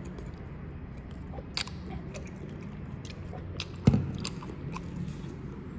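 Close-up chewing and mouth sounds of someone eating soft butterscotch bread, with scattered small clicks and one louder knock about four seconds in.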